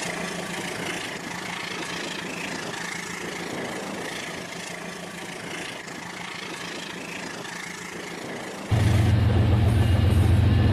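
Battery-powered toy train running on its track: a steady whirring noise. Near the end a louder, steady low hum cuts in abruptly.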